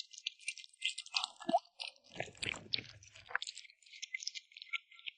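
A kitten chewing meat close up: rapid, irregular chewing clicks and crackles without a break.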